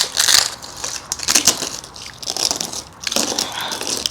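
Crisp papad being crunched, a run of uneven crackling crunches.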